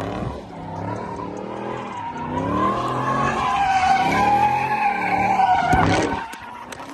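Car engine revving up and down while its tyres squeal in a long, wavering screech as the car slides, the squeal cutting off about six seconds in.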